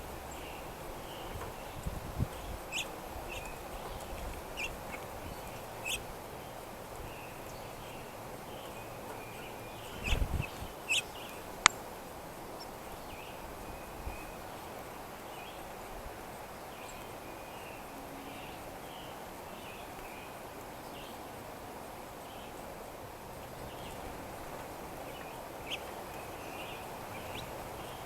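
Wild birds chirping and calling over a steady outdoor background hiss, with a few sharp clicks and a soft low thump about ten seconds in.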